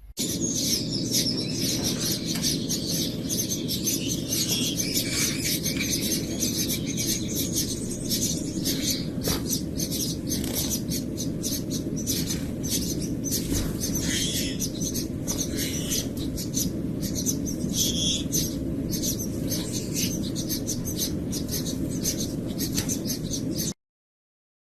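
A pet bird chirping and chattering, with many short clicks, over a steady low hum. It stops abruptly near the end.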